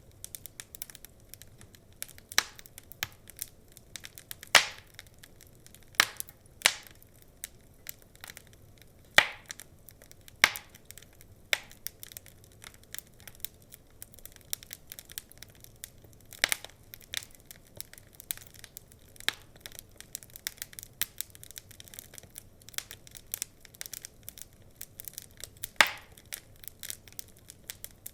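Logs burning in a fireplace, crackling with a steady run of irregular sharp pops and snaps, about half a dozen of them much louder, over a faint hiss.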